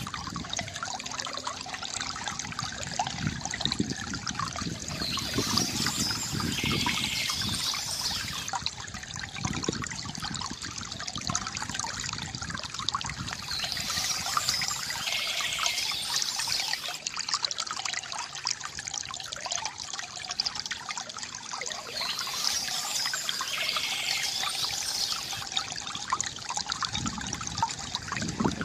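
Water trickling and gurgling steadily from a bamboo fountain, with bird chirps coming back at regular spells about every eight seconds.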